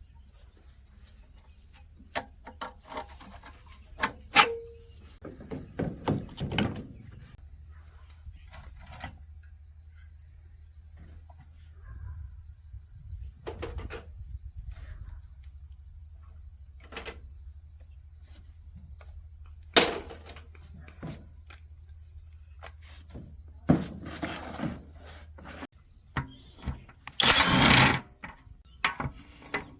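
Steady high-pitched drone of insects, with scattered short clinks and knocks from engine parts and tools being handled, and a louder noisy burst of about a second near the end.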